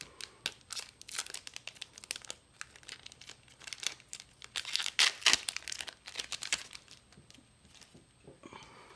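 Final Fantasy Trading Card Game booster pack wrapper crinkling and being torn open, a run of crackles that is loudest about five seconds in.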